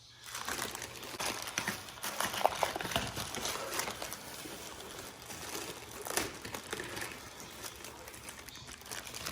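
Packaging being handled and unwrapped, crinkling and rustling, with many small clicks and rattles.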